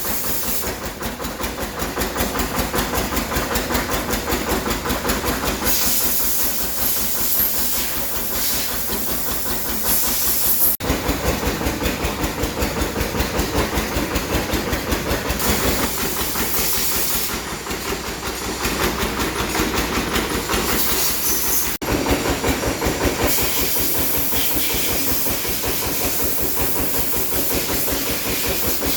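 Komatsu 6D114E-3 six-cylinder diesel engine running at a steady speed: a fast, even pulsing with a hiss over it. It drops out for an instant twice, about a third and two-thirds of the way through.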